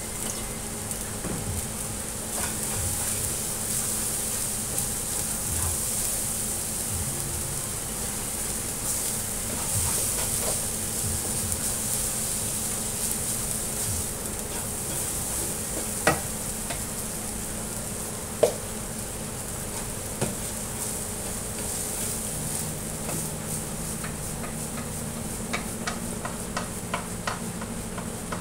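Rice frying and sizzling in a hot pan as it is stirred, with the scrape and clink of the spatula against the pan, a few sharper knocks standing out.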